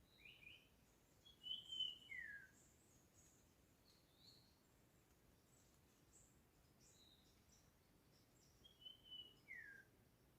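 Wild birds singing, faint: a short phrase of whistled notes ending in a quick falling note comes early, and a similar phrase repeats near the end, with fainter high chirps in between.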